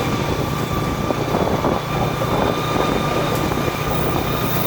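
Train running past close by: a steady, loud rumble with noise from the wheels on the rails.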